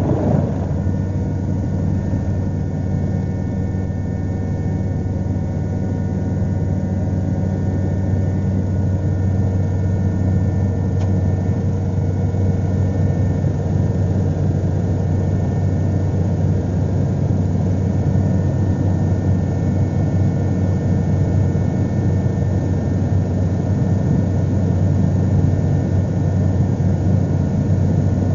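Helicopter heard from inside the cabin in flight: a loud, steady low drone from the rotor and engine, with a few thin, steady high whining tones above it.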